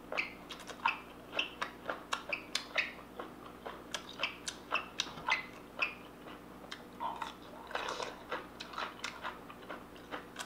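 A person chewing crunchy salad: irregular crisp crunches and mouth clicks, about two or three a second.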